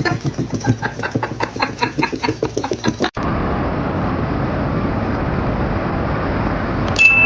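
Music with a quick, even beat that cuts off suddenly about three seconds in. A steady rumbling noise follows, ending in a short high beep.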